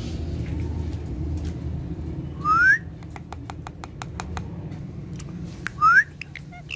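Indian ringneck parrot giving two loud rising whistles about three seconds apart, with a run of sharp clicks between them over a low steady rumble.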